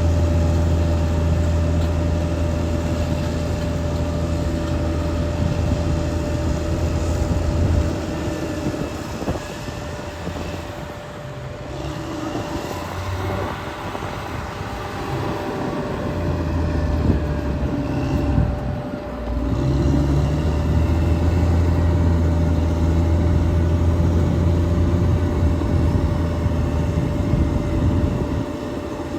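Caterpillar D6R XL bulldozer's diesel engine running hard under load, with a steady high whine throughout. About eight seconds in the engine eases off and its pitch shifts up and down for several seconds, then it comes back up to a loud, steady pull for the rest.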